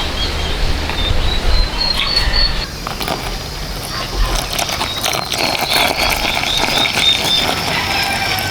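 Outdoor farm ambience: a bird chirping in quick runs of short, high notes, twice, over a steady background hiss with a low rumble and scattered clicks.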